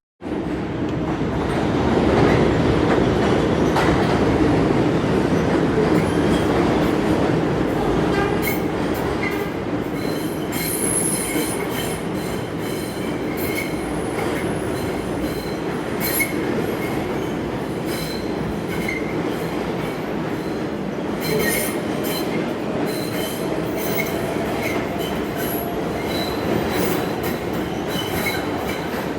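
New York City subway train, an R142A, running along the track with a steady rumble and intermittent high wheel squeal. A slowly rising whine comes in about three-quarters of the way through.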